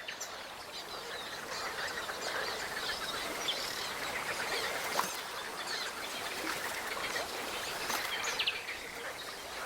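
Wetland bird chorus: many birds chirping and calling over a steady background hiss, with a sharp tap about five seconds in and another near eight seconds.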